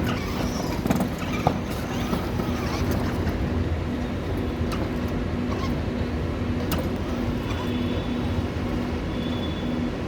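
A vehicle running steadily with a low rumble, with a faint tone pulsing on and off about twice a second and a few light clicks.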